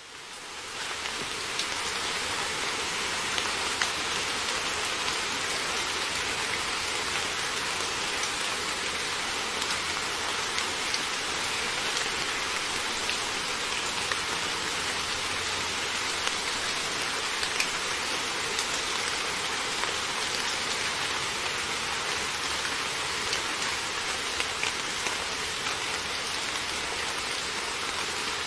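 Heavy rain falling steadily, an even hiss with scattered louder drop taps, fading in over the first second.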